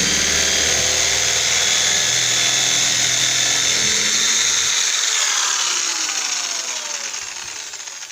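Power drill with a plain drill bit running at full speed, drilling a pilot hole through a door. About five seconds in, the trigger is let go and the motor winds down, its pitch falling as it fades.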